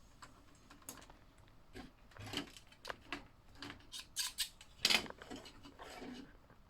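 Plastic slot car and track pieces being handled: scattered light clicks and scrapes, with one louder click about five seconds in.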